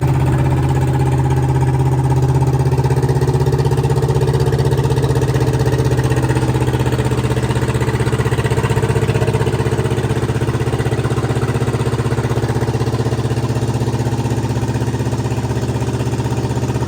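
Tractor engine running loud and steady at an even speed.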